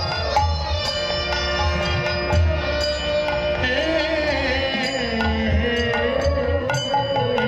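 Devotional kirtan music: a voice singing a wavering, ornamented melody over steady held notes, with hand-drum beats and sharp metallic strikes keeping the rhythm.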